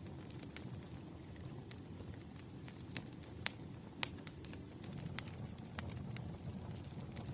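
Crackling wood fire: a steady low rumble of flames with irregular sharp pops and snaps, the loudest two a little after three and four seconds in.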